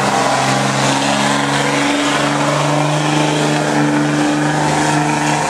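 Diesel pickup truck engine held at high, steady revs under load during a truck pull, its pitch stepping up slightly about two seconds in.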